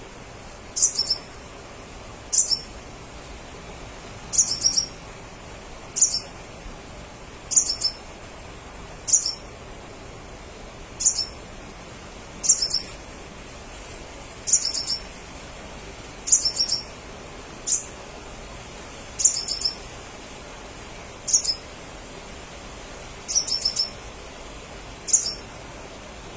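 Crimson sunbird calling with short, high chirps, every second or two, some single and some in quick runs of two to four notes.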